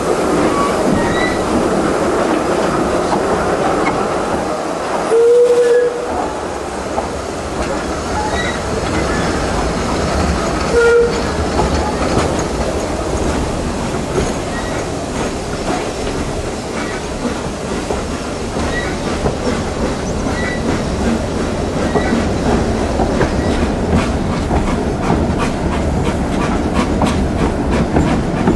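Isle of Man Steam Railway narrow-gauge steam train running, with the steady rumble and clatter of its wheels on the rails. Two short whistle blasts sound, about five seconds in and about eleven seconds in. A regular clicking grows plainer near the end.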